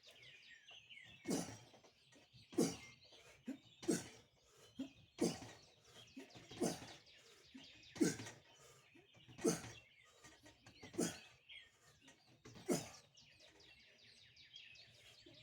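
A man's short, sharp exhalations, one with each pull-up rep, nine in a steady rhythm about one every second and a half. Birds chirp faintly in the background.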